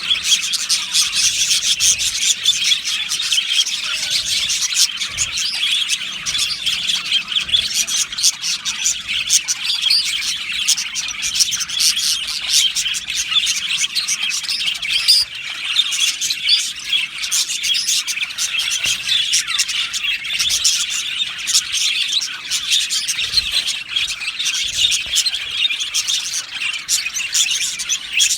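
A colony of budgerigars chirping and warbling together, a dense, unbroken chatter of many birds at once.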